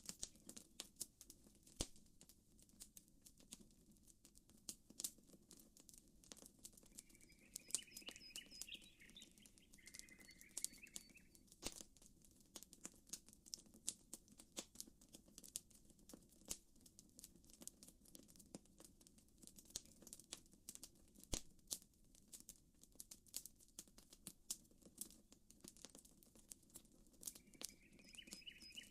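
Faint campfire crackling: a dense, irregular run of small pops and snaps over a low steady hush. A bird calls for a few seconds about eight seconds in and again near the end.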